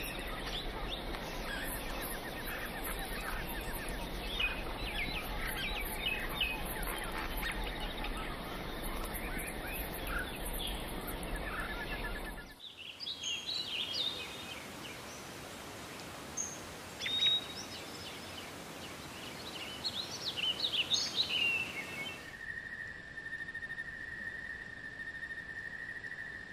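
Wild birds chirping and calling, a dense chorus for the first half, then scattered louder calls. About 22 seconds in, a steady high insect call takes over.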